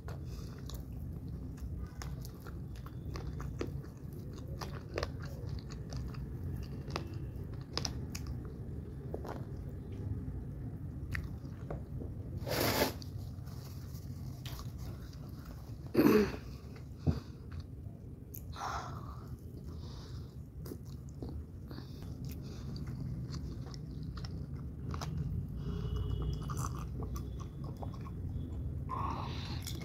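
Close-up chewing and biting of spicy chicken wings and crinkle-cut French fries, with many small crunchy clicks and mouth sounds. A couple of louder sudden sounds come near the middle.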